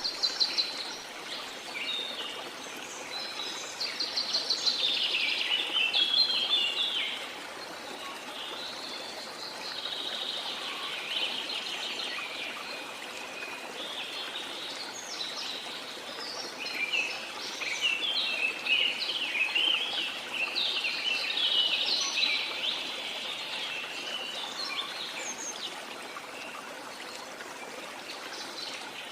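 Several birds singing in quick trilling phrases over the steady rush of a waterfall. The birdsong comes in two busy spells, a few seconds in and again past the middle.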